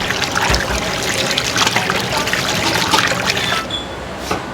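Water running from a kitchen tap in a steady hiss with small splashes, cut off about three and a half seconds in.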